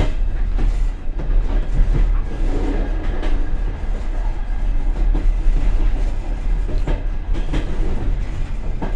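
Passenger train car running on the rails, heard from inside its rear vestibule: a steady low rumble and rattle, with the wheels knocking sharply over rail joints several times at uneven intervals.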